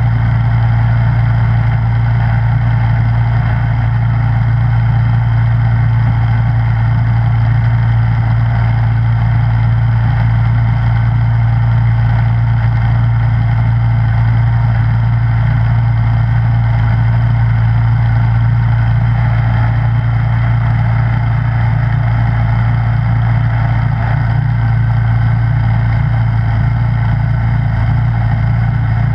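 Snowblower engine running steadily at an even speed, a strong low hum with steady overtones.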